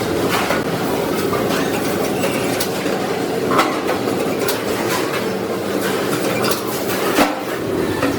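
A machine running steadily, with a few sharp metallic clicks scattered through it.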